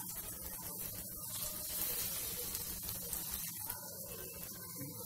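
Pea and gram-flour snack pieces shallow-frying in oil on a tava: a steady hiss of sizzling oil.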